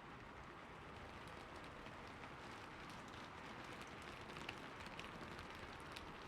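Soft, steady rain falling, with scattered individual drops ticking through it.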